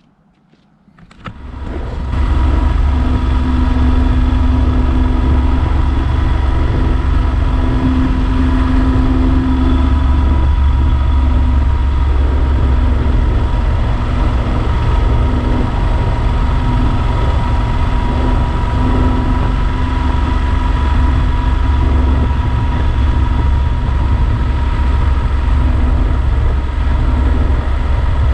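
Yamaha Super Ténéré XT1200 motorcycle under way: its engine and road noise come up about a second and a half in, then run loud and steady.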